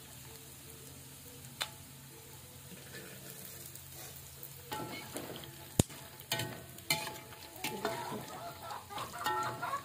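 Food sizzling as it fries in hot oil and is stirred, with a sharp click a little past halfway. Near the end, chickens start clucking.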